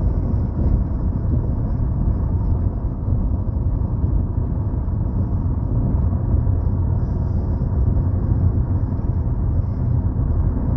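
Steady road and engine rumble heard from inside the cabin of a moving car.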